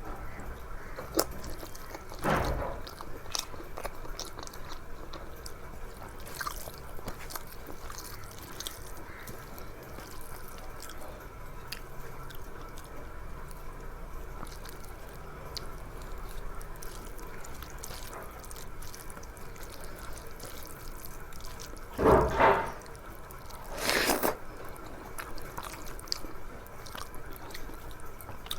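A person eating by hand: soft chewing, wet mouth clicks and smacks throughout, with three louder bites, one early and two close together near the end.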